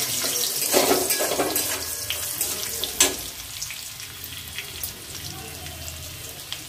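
Chopped green chillies and a bay leaf sizzling in hot oil and ghee in a metal kadai, with a spatula scraping the pan a few times in the first three seconds.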